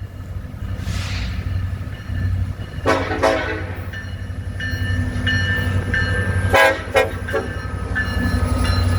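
Lead BNSF EMD SD70ACe diesel locomotive sounding its air horn in short blasts, twice about three seconds in and twice more near seven seconds, over the steady low rumble of its engine as the train approaches. A faint high ringing repeats in the background.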